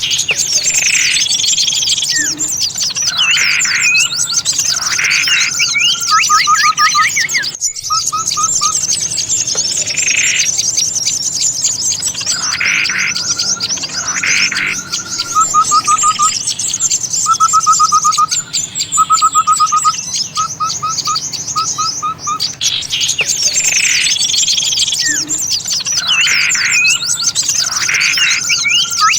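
A dense chorus of small songbirds chirping and calling excitedly, with short repeated trills among the high chatter: an edited bird-lure recording in which the same sequence of calls seems to come round again after about twenty seconds.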